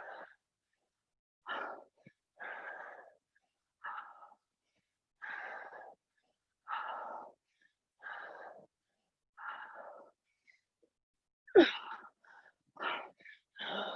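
A woman breathing hard through dumbbell squat thrusters, with a sharp exhale on each rep, about one every second and a half. There is a short voiced grunt near the end.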